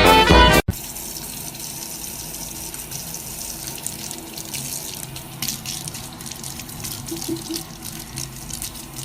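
Background music cuts off abruptly just under a second in, followed by a steady wash of running water with a few faint clicks.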